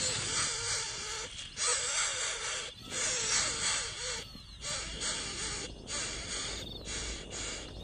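Bird nestlings giving raspy, hissing begging calls in a run of bursts about a second long with short breaks between them.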